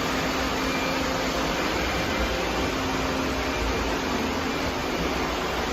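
Robot vacuum running: a steady whir of its suction motor and brushes, with a faint low hum underneath.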